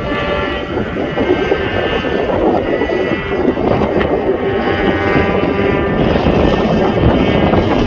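Mosquito ultralight helicopter running steadily, with an even engine-and-rotor drone.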